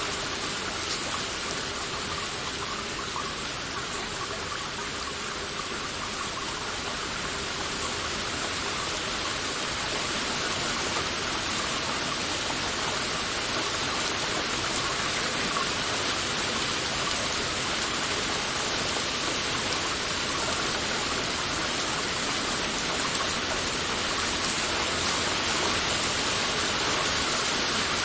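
Heavy rain falling steadily, a dense even hiss of drops that grows slightly louder over the stretch.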